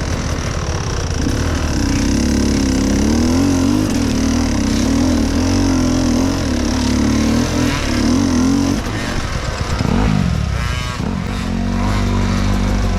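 Enduro dirt bike engine under constant throttle changes while climbing rough ground; the revs waver quickly up and down. The engine drops off about nine seconds in, picks up briefly around ten seconds, then runs at lower revs near the end.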